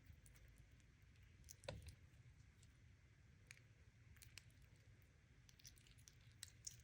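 Near silence with scattered faint clicks and taps, and one soft knock a little under two seconds in.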